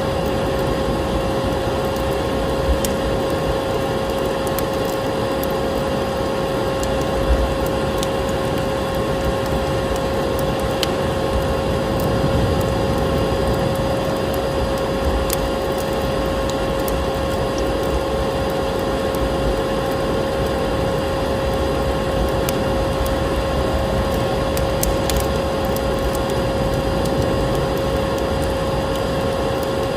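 Vacuum cleaner running steadily with a constant droning hum, mixed with a fireplace's crackle: scattered small pops and snaps from burning wood.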